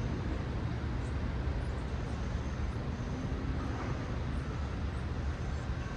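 Steady city road traffic: cars passing in a continuous low rumble of engines and tyres, with no single vehicle standing out.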